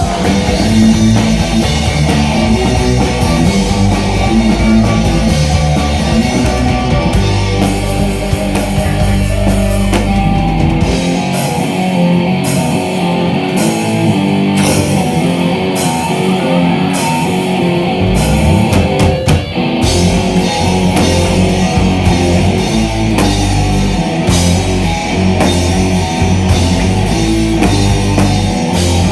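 Instrumental passage of a heavy rock song, with electric guitars over a drum kit. For several seconds in the middle the bass and kick drop out, leaving guitar and regular cymbal hits, before the full band comes back in.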